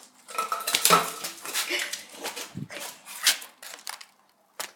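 Cavalier King Charles Spaniel puppy vocalising in a run of short sounds over the first three seconds or so, with a single click near the end.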